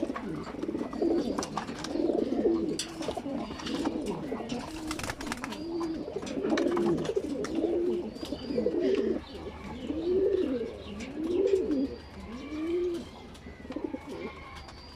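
Racing pigeons cooing, many repeated rising-and-falling coos overlapping from several birds, with scattered light clicks and taps among them. The cooing thins out near the end.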